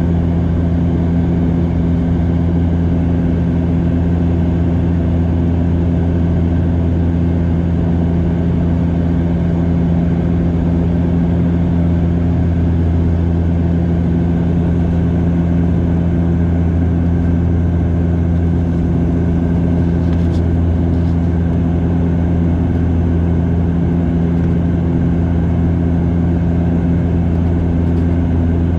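Bombardier Dash 8 Q400 turboprop engines and propellers heard from inside the passenger cabin: a loud, steady drone with a deep hum and its overtones.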